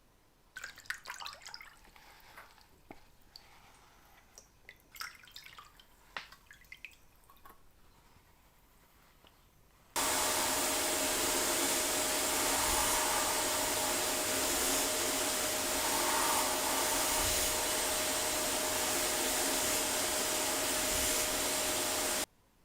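Faint clicks and light scrapes of small parts being handled. About ten seconds in, a motor-driven workshop appliance switches on and runs steadily with a constant hum and a loud hiss, then cuts off suddenly about twelve seconds later.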